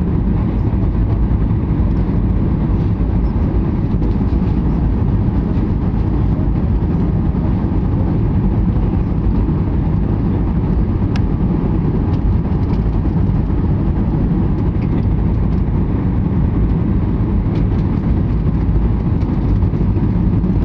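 Steady low roar of an aeroplane's engines and rushing air as it comes in to land, holding even without rising or falling.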